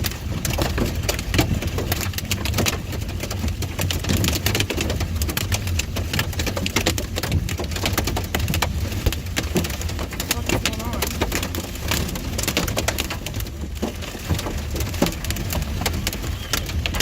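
Heavy rain pelting the car's windshield and roof in a severe thunderstorm, a dense rapid patter of impacts over the low rumble of the car driving, heard from inside the cabin.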